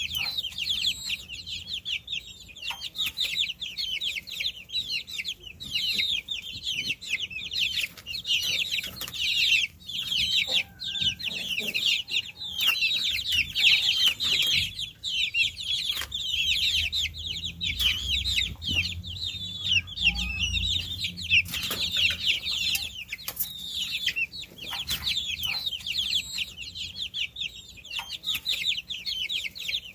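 A brood of baby chicks peeping without pause: many overlapping short, high-pitched calls, each falling in pitch. A low rumble joins them for a few seconds in the middle.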